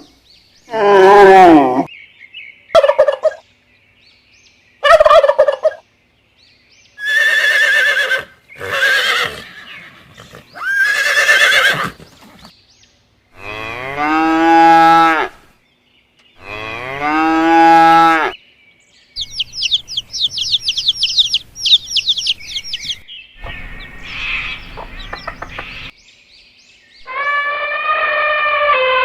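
A series of separate animal calls one after another with short silent gaps, some long and drawn out, some short, and a quick high chattering run in the middle.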